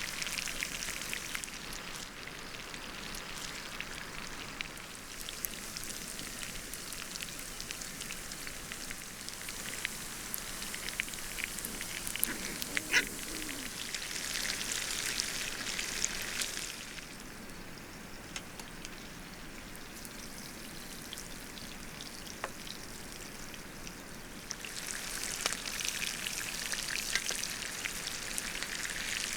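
Steaks searing in butter in a hot pan: a steady frying sizzle dotted with small crackles and spits. It swells about halfway through, eases off, then grows again near the end.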